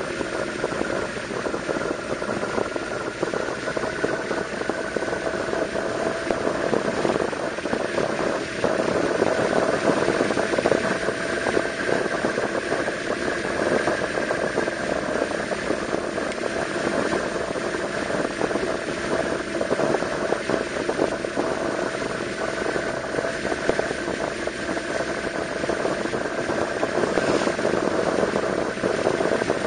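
Yamaha V-Max 1200 motorcycle's V4 engine running at a steady, unhurried pace while the bike is ridden, its pitch drifting only slightly, over a steady rush of wind and road noise.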